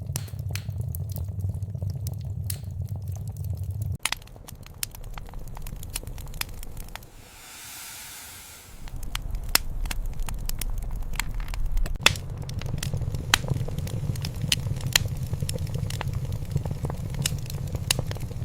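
Wood fire crackling, with sharp pops scattered throughout over a low rumble. The rumble drops away about four seconds in, a short hiss rises a few seconds later, and then the crackling picks up again.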